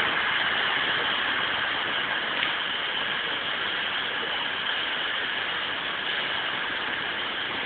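Steady, even engine noise of trains standing at station platforms, easing off a little.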